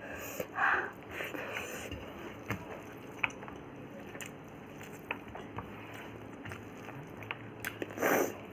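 Close-up eating sounds: chewing and biting, with scattered small mouth clicks, and two louder breathy bursts of noise, one about half a second in and one near the end.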